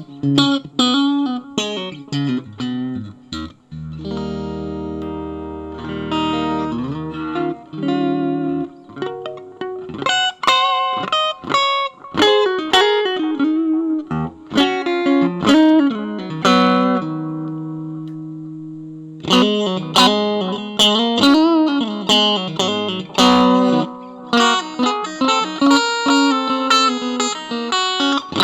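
Bacchus Universe guitar being played, mixing held chords and low ringing notes with quick runs of plucked single notes. About halfway through, one chord is left to ring out before the playing picks up again.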